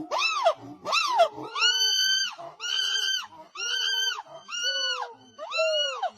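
A monkey giving a series of high-pitched squealing calls, about one a second, each rising and then falling in pitch. The first two are short and arched, and the later ones are held longer.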